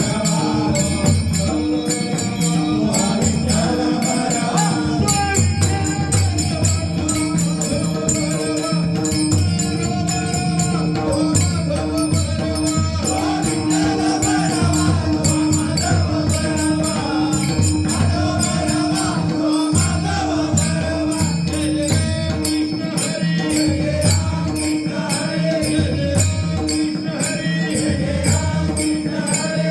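Devotional bhajan music: pakhawaj drumming with a steady beat of low strokes, under quick, continuous metallic jingling strokes and a sustained melody.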